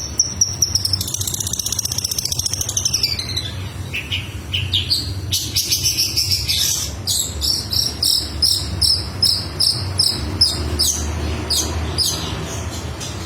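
Long-tailed shrike (cendet) in full song, mimicking lovebird calls: high chirps with a falling glide early on, then a long run of rapid, evenly repeated notes.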